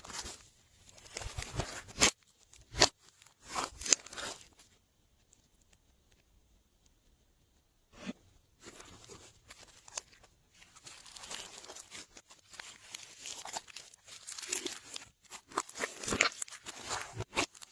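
Glossy slime being kneaded and stretched by hand, giving quick runs of sharp clicks and pops, broken by a pause of about three seconds in the middle.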